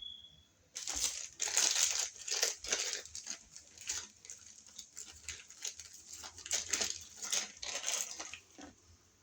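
Stiff electrical wires scraping and crinkling as they are handled and pushed into line inside a wall outlet box, a busy run of scratchy rustling.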